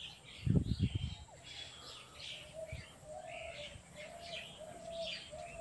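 Birds chirping repeatedly in the background, with a brief low thud about half a second in.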